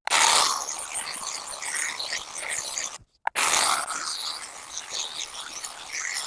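A hand tool scraping through mud and leaves at the edge of a path, in two stretches of steady scraping split by a sudden break about three seconds in.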